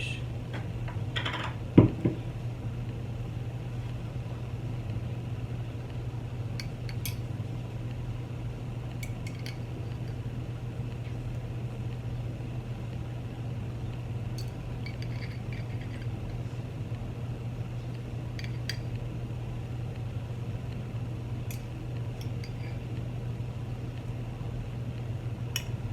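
Dishes and utensils being handled: a sharp knock about two seconds in, then scattered faint clinks, over a steady low hum.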